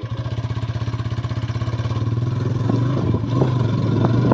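Motorcycle engine running just after starting, a low pulsing sound that grows gradually louder, with a few light clicks near the end.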